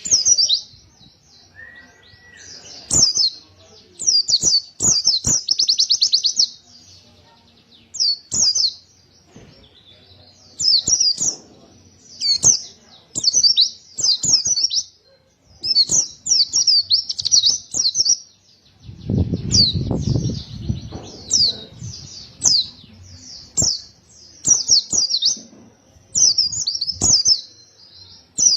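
A white-eye (pleci) singing hard in repeated rapid, high-pitched warbling phrases, each a second or two long with short pauses between them. A brief low rumble comes about two-thirds of the way through.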